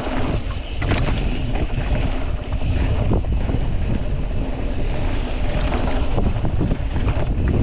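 Wind buffeting the microphone of a mountain biker riding at speed on a dirt fire road, with a steady low rumble and a few scattered knocks from the bike on the rough ground.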